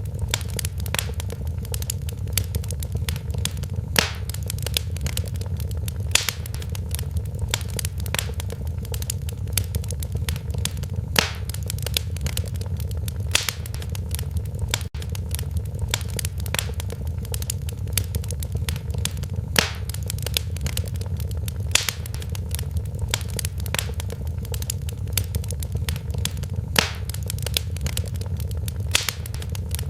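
Wood fire burning in a fireplace: a steady low rumble of flames with frequent sharp crackles and pops, a few noticeably louder snaps every few seconds.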